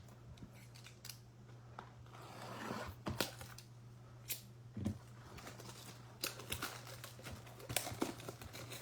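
A sealed box of baseball cards being opened by hand: scattered snips, clicks and crinkling of packaging, with a noisier rustle about two and a half seconds in. A steady low electrical hum runs underneath.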